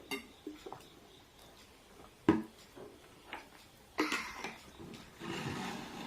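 Sounds of eating a meal: scattered clicks and knocks of dishes and cutlery, the loudest a single sharp knock about two seconds in, with short noisy stretches in the second half.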